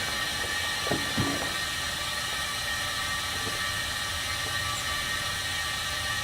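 Steady hiss of running air equipment, with faint steady whining tones under it and a couple of light knocks about a second in.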